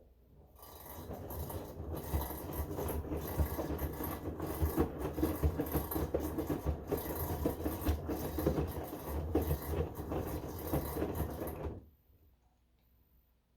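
Bosch Home Professional washing machine making a rough, uneven grinding noise during the wash, the odd noise that Bosch customer service calls normal. It builds up within about a second and stops abruptly about a second and a half before the end.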